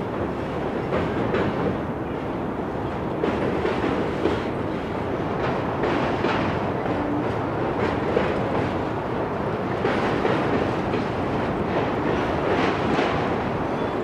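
Railroad cars rolling past on the track with a steady rumble of wheels on rail, and repeated clicks, some in close pairs, as the wheels cross rail joints.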